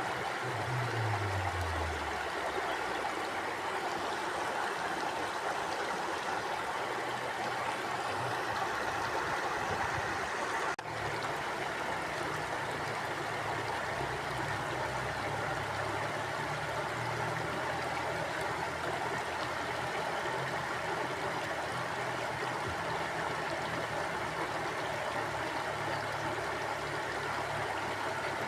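Stream water running steadily over rocks, an even rushing flow. A faint low tone falls in pitch in the first two seconds, and the flow dips for an instant about eleven seconds in.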